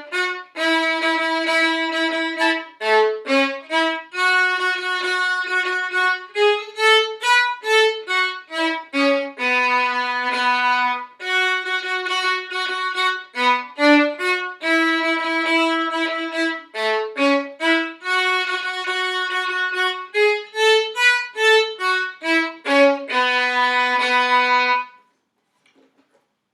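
Solo violin playing a single-line exercise melody at a brisk tempo, mixing short detached notes with longer held ones. It stops near the end.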